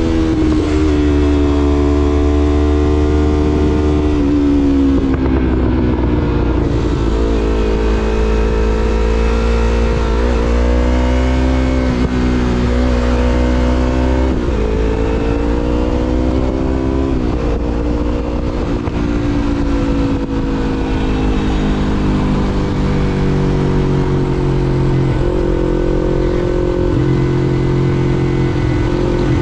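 2016 Yamaha MT-25's parallel-twin engine through a Shadux Viper Pro Race aftermarket exhaust, riding under way. The engine note rises and falls with the throttle, with several quick jumps in pitch.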